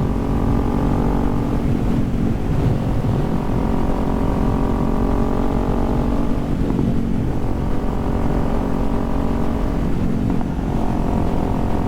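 Kawasaki Z400's parallel-twin engine running steadily while riding. Its note breaks and settles at a new pitch three times, about 2, 6.5 and 10 seconds in.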